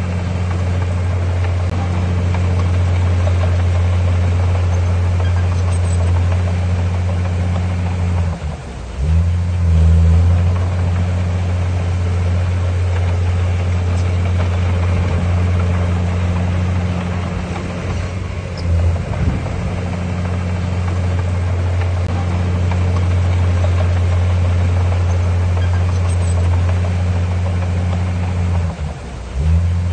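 Heavy diesel engine of earthmoving machinery running steadily with a deep drone, briefly dropping and picking up again about nine seconds in and once more near the end.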